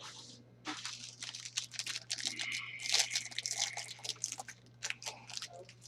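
Crinkling, rustling and light clicks of trading-card packs and cards being handled and opened, with a busier stretch of crinkling around the middle. A steady low electrical hum sits underneath.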